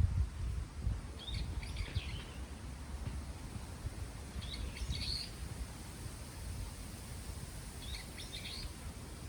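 A songbird giving a short phrase of chirps three times, about every three seconds, over a steady low rumble of wind.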